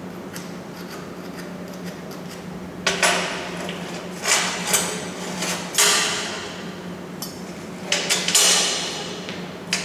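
Hammer striking steel: a series of sharp, ringing metal blows in irregular groups starting about three seconds in, over a steady low hum.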